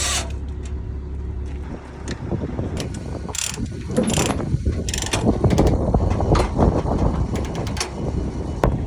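Irregular metal clanking and clicking, like ratcheting hardware, over a low rumble; it starts about two seconds in.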